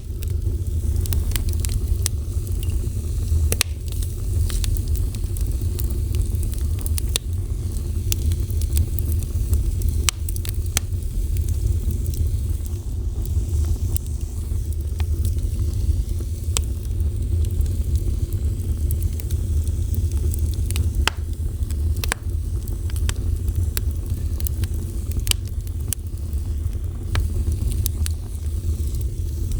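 Fire burning, with a steady low rumble and irregular sharp crackles and pops throughout.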